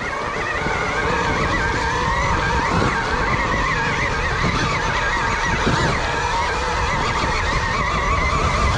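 Electric KTM Freeride E-XC dirt bike being ridden on a trail: the motor's whine rises and falls in pitch with the throttle, over wind buffeting and tyre noise.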